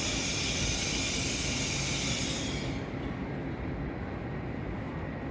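N700S Shinkansen train at the platform: a steady low rumble with a loud hiss over it, and the hiss cuts off about two and a half seconds in while the rumble carries on.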